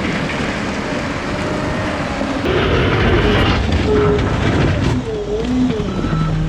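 Heavy diesel machinery running with a loud, steady rumble, with several short squealing tones about three to five and a half seconds in.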